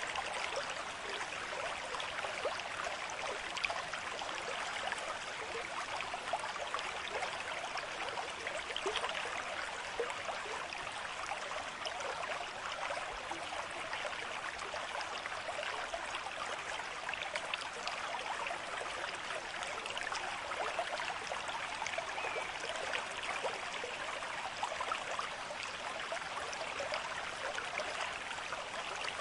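Small stream of water running and trickling steadily, a continuous babble of water over stones.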